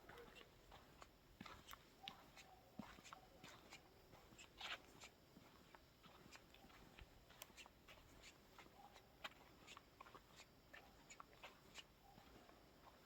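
Faint footsteps of someone walking on a path: light, irregular clicks, several a second.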